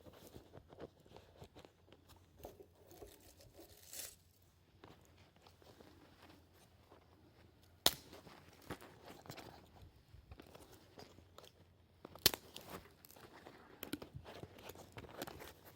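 Irregular crunching and rustling, with two loud sharp snaps, about eight and twelve seconds in.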